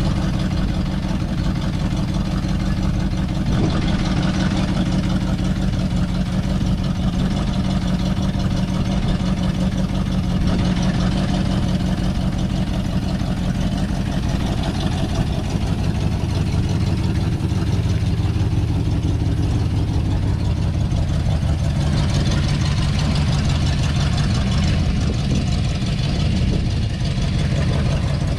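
An engine running steadily at idle, a continuous low drone whose note shifts lower about two-thirds of the way through.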